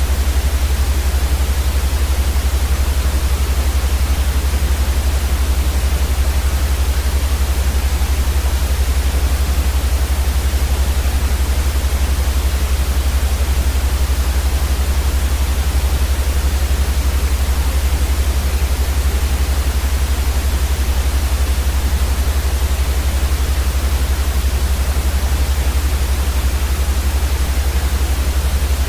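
A continuous white-noise track for sleep: an even, unchanging hiss with a strong low rumble beneath it.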